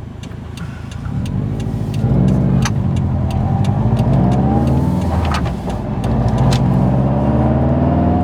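2011 Subaru WRX STI's turbocharged 2.5-litre flat-four through a titanium 3-inch single-exit Tomei Expreme Ti exhaust, heard inside the cabin with the windows up: a steady low note that gets louder about a second in as the car accelerates, rising in pitch, easing off once around the middle and then rising again.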